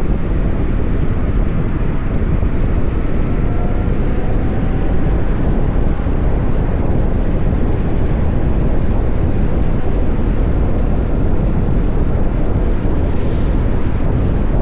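Wind rushing over the microphone of a moving VMoto Stash electric motorcycle, with a faint whine rising slowly in pitch during the first few seconds.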